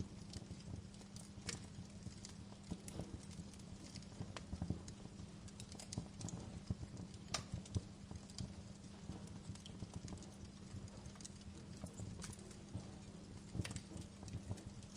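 Wood fire in a fireplace crackling: irregular sharp pops and snaps, a few louder than the rest, over a low steady hum.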